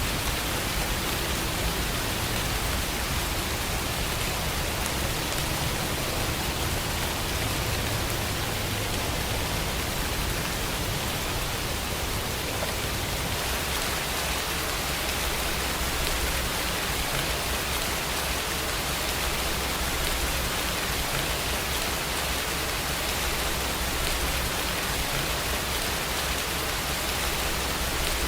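Steady rainfall, an even, unbroken hiss with a low rumble underneath.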